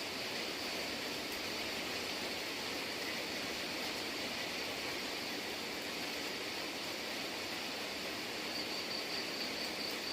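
Steady rain falling, an even hiss with no breaks. A thin high tone runs above it and turns into rapid pulsing near the end.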